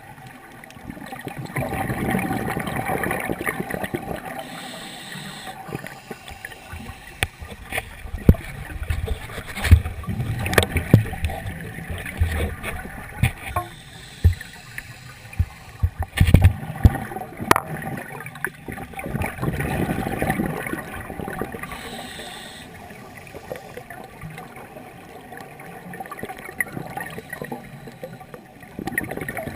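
Underwater sound of a scuba diver breathing through a regulator: exhaled bubbles gurgling and rumbling in swells. A run of sharp clicks and low knocks comes in the middle.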